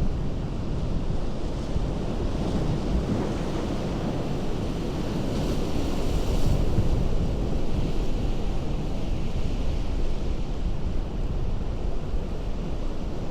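Ocean surf breaking on a rocky shore: a continuous rumble of water, with a wave surging and washing in with a louder hiss about halfway through.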